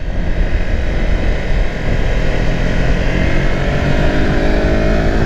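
Kawasaki Versys X300's 296 cc parallel-twin engine running while riding, heard from on the bike, its note climbing gently as it accelerates about two seconds in, over steady road and wind rush.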